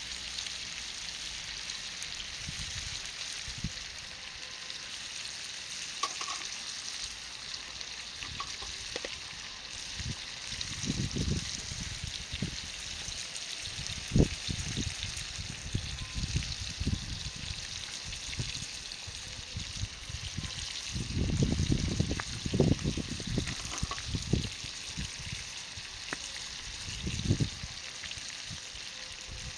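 Mushroom and shrimp ajillo sizzling steadily in hot oil over charcoal. Short low bumps and rumbles come and go in the middle and near the end.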